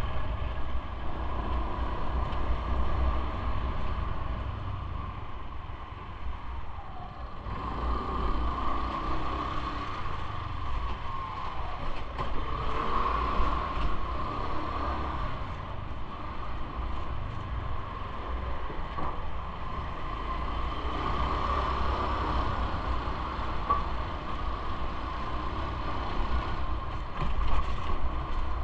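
Continuous riding noise from a bike on the move: low rumble with a steady mechanical hum and light creaking and rattling.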